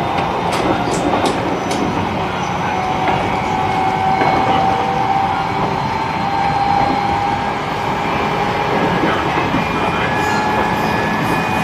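E129 series electric train with a Toyo IGBT VVVF inverter running on the line, heard from inside the motor car: a steady electric motor whine over wheel-on-rail rumble. A few sharp clicks from the wheels and rails come in the first couple of seconds.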